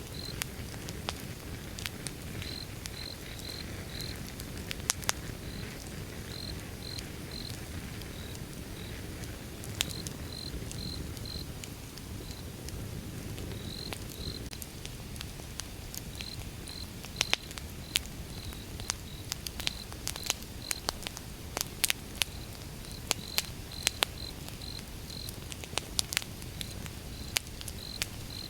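Wood fire burning with a steady low rumble and sharp crackles and pops, the pops coming thicker in the second half. A high chirping runs through it in short runs of two or three, like a cricket.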